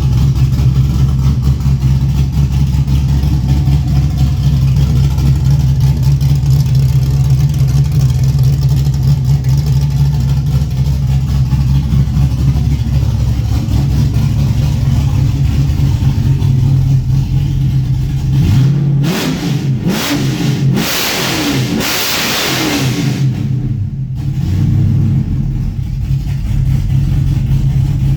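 4.8L LS V8 with a Texas Speed MS4 camshaft and no mufflers, idling steadily. About two-thirds of the way through it is revved several times in quick succession, ending in one longer rev, then drops back to idle.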